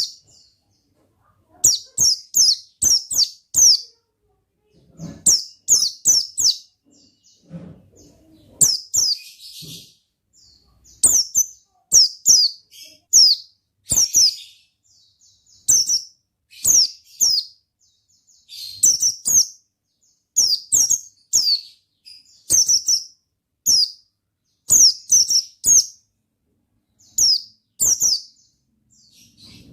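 A white-eye (pleci) singing in repeated short bursts of quick, high chirping notes, a few notes per burst, every second or two with brief pauses between.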